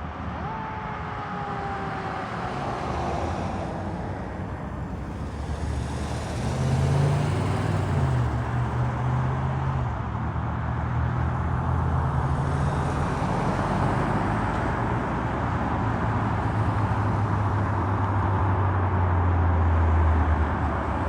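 Fire truck's diesel engine running close by, a heavy low drone that grows louder over the last several seconds, with road noise. A faint falling tone sounds near the start.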